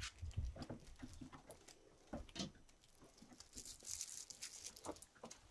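Kittens scrabbling about on a plastic Hot Wheels track: faint scattered taps, clicks and rustles, with a few soft thumps in the first second.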